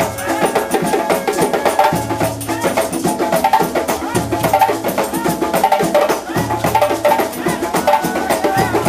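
Live Tobago drumming: a percussion group playing a fast, dense rhythm of sharp strokes over pitched drum notes, with a deep low beat about every two seconds.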